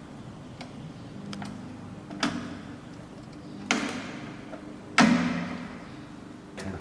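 Hard parts knocking and clicking together as they are handled, about six sharp knocks. The loudest, about five seconds in, rings briefly. A steady low machine hum runs underneath.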